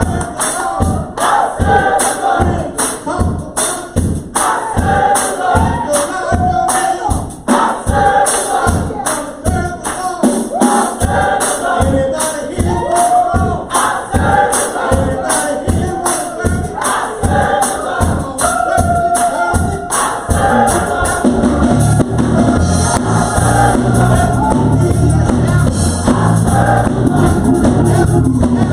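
Gospel choir singing over a steady beat of about two strokes a second; low instrumental bass notes come in about twenty seconds in and carry on under the voices.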